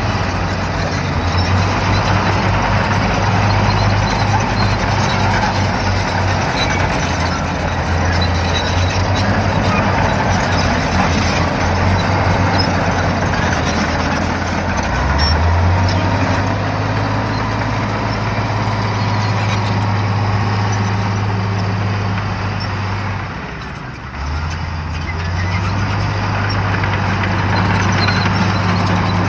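Shantui bulldozer's diesel engine running hard under load, a steady low drone with a dense mechanical clatter over it. The engine eases off briefly about three-quarters of the way through, then picks back up.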